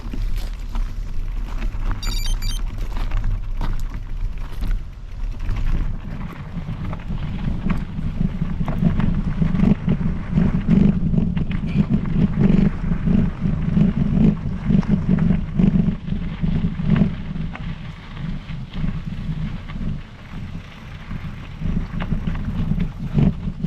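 Wind buffeting the microphone over the rumble of a Specialized Epic Pro mountain bike's tyres rolling along a trail, with frequent small knocks and rattles. The rumble gets stronger about six seconds in.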